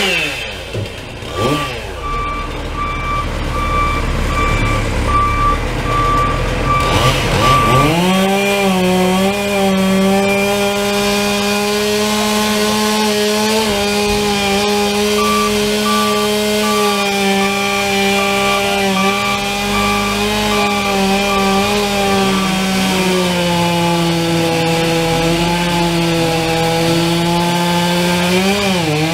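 Gas chainsaw revving up and down in short bursts, then held at steady full throttle for about twenty seconds while cutting the downed tree, dipping briefly near the end. An intermittent beep sounds behind it at times.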